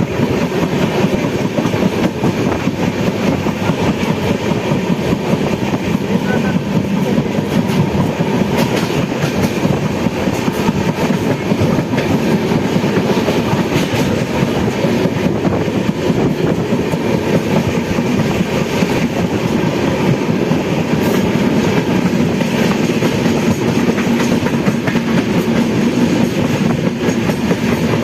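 Train running along the track, its wheels clattering steadily over the rails without a break.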